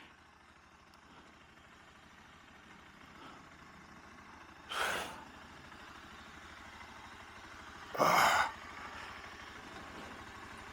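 Motorcycle engine running quietly at low speed, growing slightly louder, with two short rushes of noise about five and eight seconds in, the second longer and louder.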